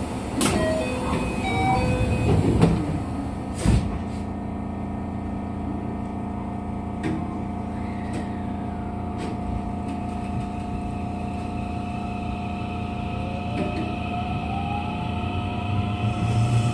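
Inside a JR West 207 series electric train whose traction motors have not been replaced, so it keeps its original motor sound: a door chime, then the sliding doors shut with a thud. The train then starts off, its motor whine rising steadily in pitch as it picks up speed.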